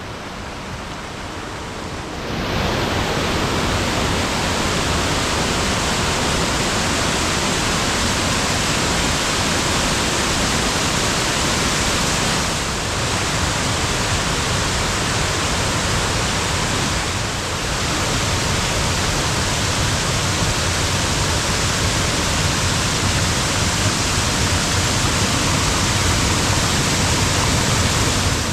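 Swollen creek water rushing steadily where it runs over and off a road, getting louder about two seconds in.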